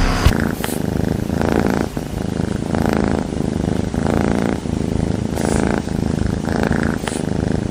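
A cat purring loudly close up, the purr swelling and easing with each breath about once a second.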